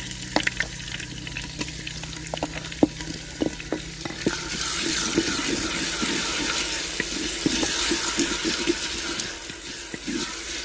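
Garlic and ginger paste frying in hot oil with browned onions in a clay pot, stirred with a wooden spoon that knocks and scrapes against the pot. The sizzle swells to a loud hiss about four seconds in.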